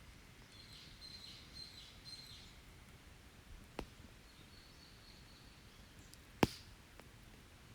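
Open wood fire giving two sharp pops, about four and six and a half seconds in, the second louder, over faint high bird calls in the forest.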